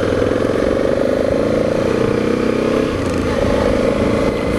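Motorcycle engine running as the bike rides along, a steady drone with a brief change in pitch about three seconds in.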